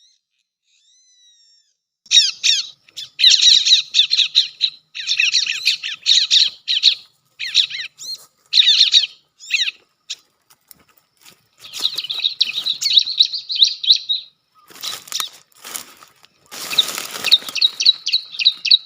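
Bar-winged prinia (ciblek) calling in rapid bursts of high, sharp chirping notes, then a longer run of fast notes. A few seconds from the end come short bursts of rustling noise, and the fast chirping starts again near the end.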